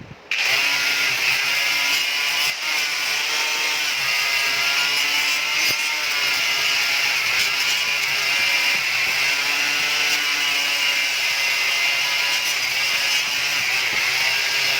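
A power tool running steadily while working metal, cutting in suddenly just after the start.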